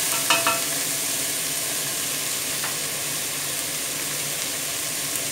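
Sliced onions sizzling in ghee in a stainless-steel pressure cooker, with chicken frying in oil in the pan beside it: a steady frying hiss. A brief clink comes near the start.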